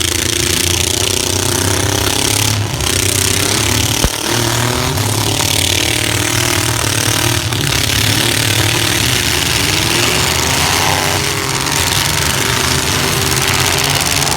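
Several compact pickup trucks' engines running loud and revving up and down in a demolition derby, with a few sharp knocks of impacts, the clearest about four seconds in.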